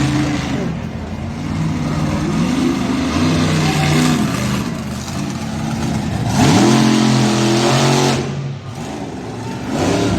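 Monster truck engine revving in bursts, with a loud rev climbing in pitch about six seconds in, held for over a second, then cut off.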